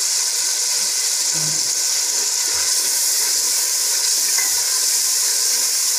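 Tomato-and-onion masala frying in an aluminium pot with a steady sizzling hiss, while a steel ladle stirs through it.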